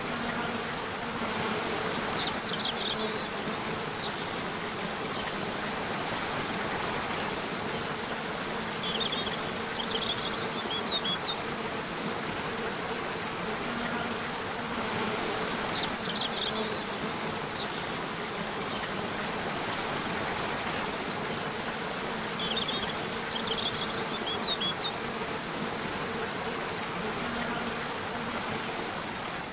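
A steady insect buzz, as from bees, over a continuous hiss of natural ambience. Short clusters of high chirps come back about every seven seconds.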